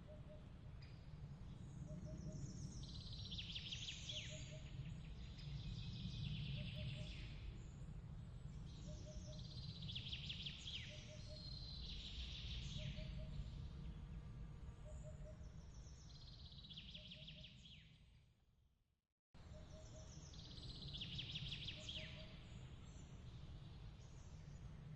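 Looped night-ambience track: birds chirping in trilling bursts over a steady low rumble, with a soft double chirp repeating every second or two. About eighteen seconds in it fades to silence and then cuts straight back in, the seam of the loop.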